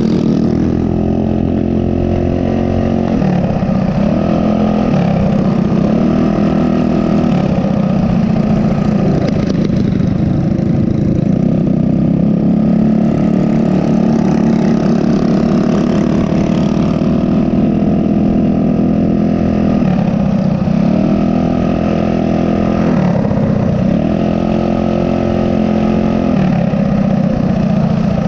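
Small single-cylinder four-stroke minibike engine running under way. Its pitch drops and climbs back several times as the throttle is eased off and opened again.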